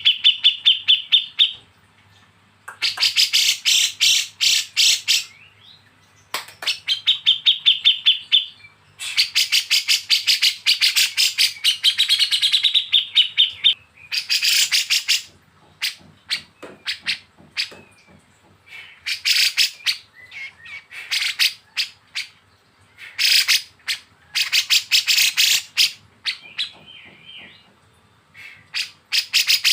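Kapas tembak and cucak jenggot birds giving harsh, rapid chattering 'besetan' calls. The calls come as bursts of quick ticking notes, each lasting one to four seconds with short pauses between. A few bursts carry a held high whistle, and one ends in a short warbling trill.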